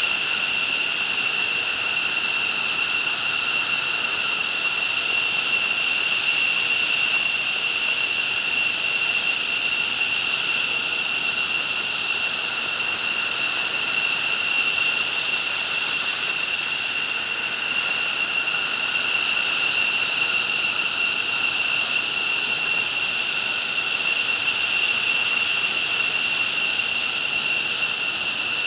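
F-15 jet engines running steadily on the ground, a loud, even whine made of several high tones over a rushing hiss, neither rising nor falling.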